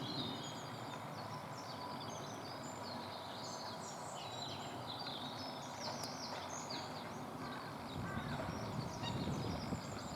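Small birds calling with many quick, high chirps over a steady outdoor background hiss; a low rumble comes in about eight seconds in.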